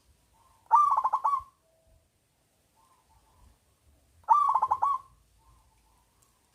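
Zebra dove (perkutut) cooing: two bouts of fast staccato coos about three and a half seconds apart, with fainter notes between them.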